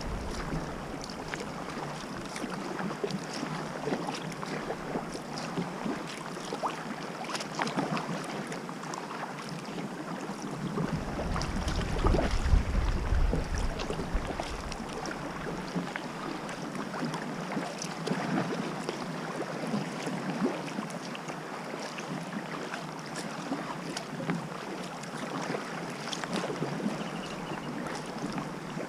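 Water splashing and lapping around a sea kayak as it is paddled, with many small splashes. Wind buffets the microphone, most strongly from about eleven to fifteen seconds in.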